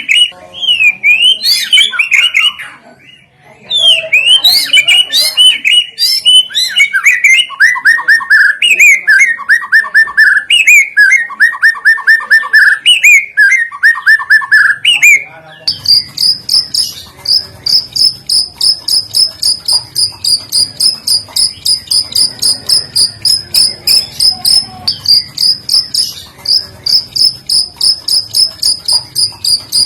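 Recorded songbirds singing loud, varied whistled phrases that slide up and down, used as lure audio for training white-rumped shamas. About halfway through it switches abruptly to a steady, high chirp repeated evenly about three times a second.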